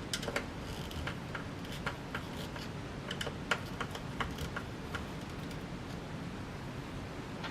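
Scattered small clicks and taps of hand-working the hardware while fitting blades onto a vintage ceiling fan, irregular and densest in the first few seconds, thinning out near the end.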